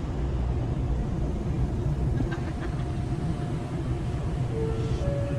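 Steady low rumble of a large car ferry under way, the drone of its engines carried through the hull, with a few faint short tones over it near the end.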